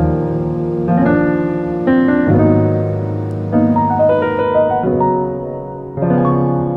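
Background piano music: soft chords and a melody, a new chord struck about once a second.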